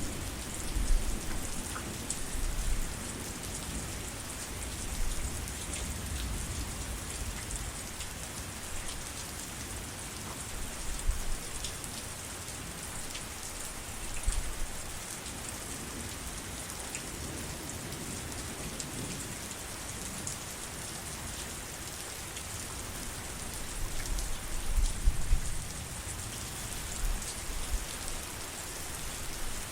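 Steady heavy rain pattering, with a few low rumbles swelling now and then, the longest a little before the end.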